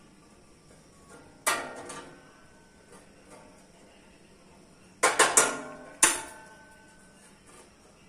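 Steel plate clanking under blows, each strike ringing briefly: one clank, then a quick run of three and one more a second later.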